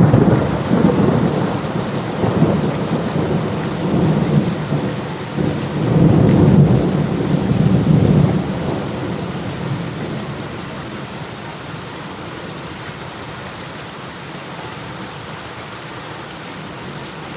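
Steady rain falling, with low rolling rumbles of thunder that swell twice more, the biggest about six to eight seconds in, then die away, leaving only the hiss of the rain.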